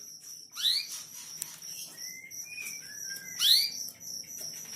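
Canaries calling: two loud upward-sweeping chirps about three seconds apart, with softer short whistled notes between them, over a steady high-pitched tone in the background.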